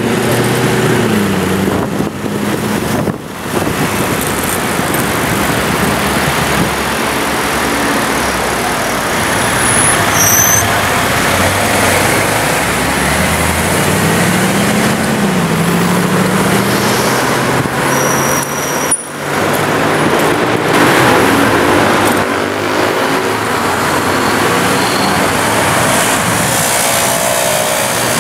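Mercedes-Benz C63 AMG Coupe's V8 exhaust revving and accelerating, the engine note rising and falling several times over city traffic noise.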